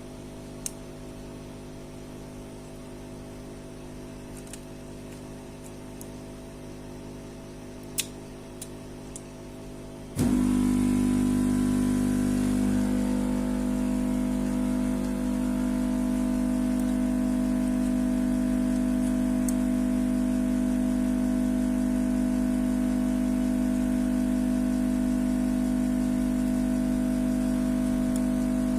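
A few light clicks over a low hum, then about ten seconds in a motor starts abruptly and runs with a loud, very steady hum.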